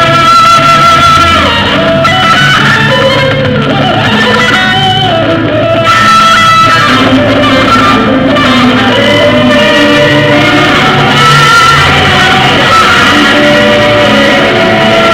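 Loud rock music led by electric guitar, with long held notes that waver in pitch over a full band.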